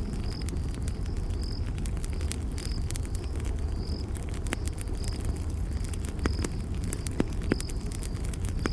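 Campfire burning with a steady low rumble and frequent sharp crackles and pops, while a cricket chirps with short high notes about once a second.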